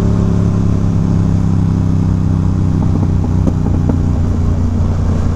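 Twin-cylinder sport-bike engine running at low revs on a slow descent, its pitch easing slightly lower, with a few light knocks in the middle.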